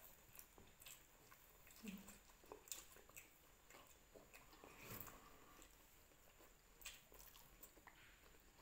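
Faint chewing and mouth smacks of people eating fried tofu: scattered soft clicks, the clearest about two, five and seven seconds in.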